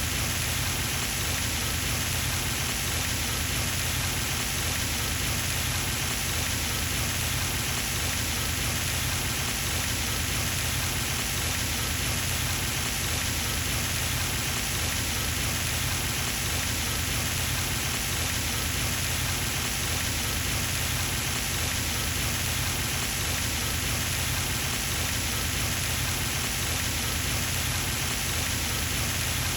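Pond fountain spraying and splashing: a steady, unbroken rush of falling water.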